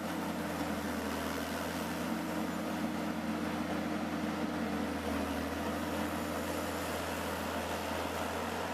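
A machine running steadily, with an even low hum that holds throughout.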